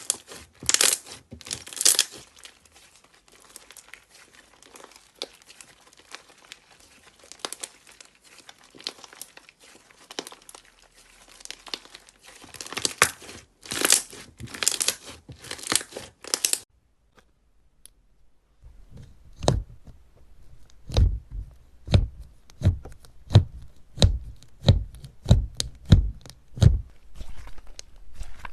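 Slime being handled: a dense crackling and crinkling, with louder bursts, as it is pressed and pulled apart. After a short gap, slime is pressed in a steady run of low, wet-sounding presses, about two a second.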